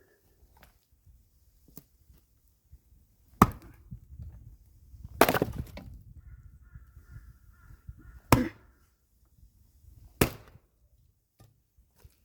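Firewood being split with an axe: four sharp chopping strikes into logs, a few seconds apart, the second lasting longer as the wood cracks apart.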